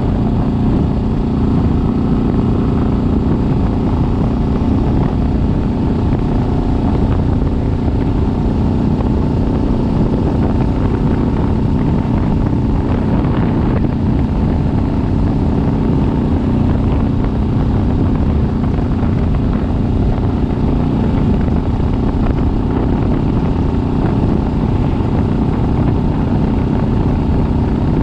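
Kawasaki Vulcan S's 649 cc parallel-twin engine running at a steady speed on the road, with an even note that neither rises nor falls.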